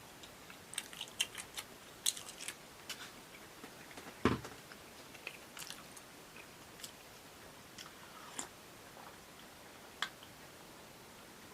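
Close-miked eating sounds: quiet chewing with scattered sharp mouth clicks, and one duller low thump about four seconds in.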